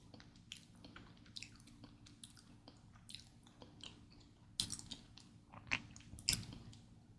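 Close-miked chewing of mi goreng fried instant noodles: soft wet mouth clicks and smacks, with three louder smacks in the second half.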